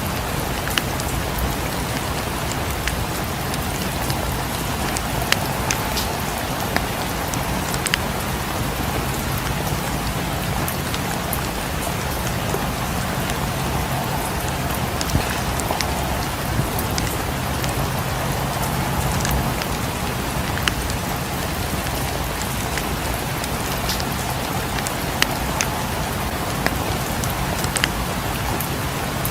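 Steady rain against a cabin's windows, mixed with the crackle of a wood fire in a fireplace: an even rushing hiss with a low rumble underneath, broken by scattered sharp pops.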